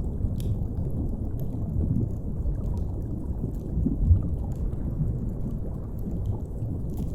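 Underwater ambience: a steady deep rumble of the sea, with a small swell about four seconds in, and faint scattered crackles of a wood fire over it.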